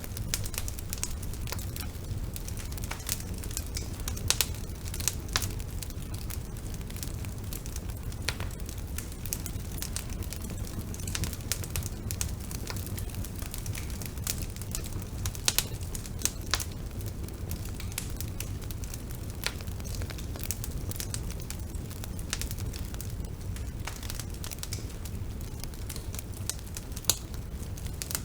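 Bonfire burning: a steady low rumble of the flames under irregular sharp crackles and pops from the burning wood.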